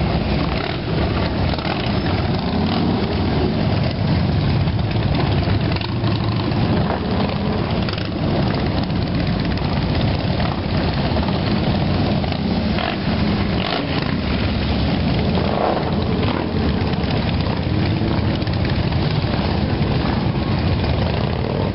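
Motorcycle engines running and idling together, a steady, dense engine noise with no break.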